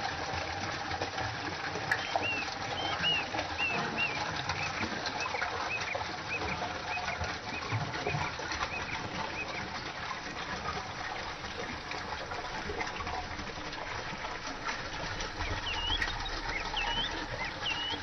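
A small bird chirping in runs of short rising-and-falling notes, several a second, over a steady wash of stream water. The chirping stops for a while in the middle.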